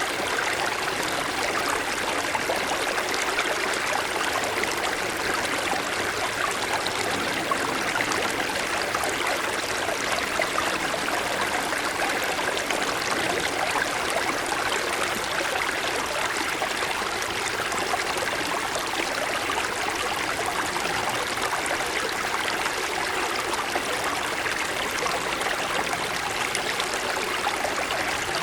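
Small mountain stream flowing and babbling over snow-covered stones, a steady, even rush of water.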